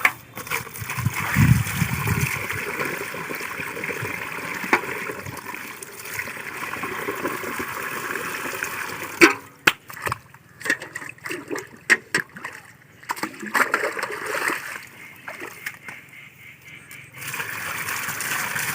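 Water splashing and sloshing over a steady run of flowing water, with a flurry of sharper splashes about halfway through.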